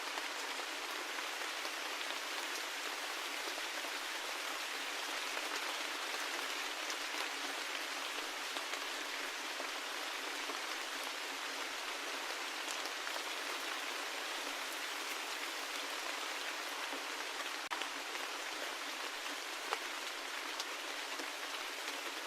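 Steady rain falling: an even hiss with scattered sharper drop ticks through it.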